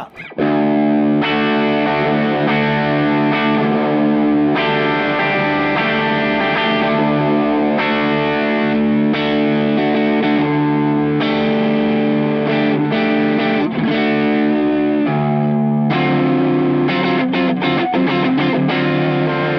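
Electric guitar played through an Olinthus Cicada overdrive pedal, a TS808 Tube Screamer recreation, with the gain all the way up and the tone knob fully back. Distorted chords ring out and change every second or two, with a dark tone.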